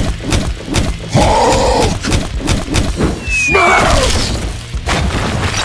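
A rapid run of knocks and crashes with a shattering, breaking sound over background music, with a short falling whistle about three seconds in.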